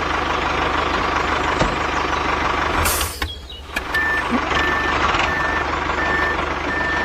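JCB 3DX backhoe loader's diesel engine running, with its reversing alarm beeping steadily about one and a half times a second from about four seconds in.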